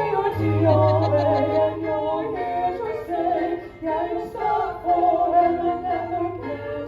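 A choir singing a cappella, several voices holding sustained chords that change every half second or so.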